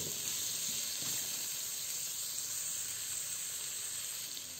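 Shrimp, onion, garlic and carrot strips sizzling steadily in hot oil in a wok, fading a little near the end.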